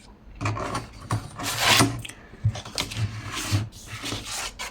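Sheets of thick cardstock being handled on a craft board: irregular rustling and sliding scrapes, with a few light knocks.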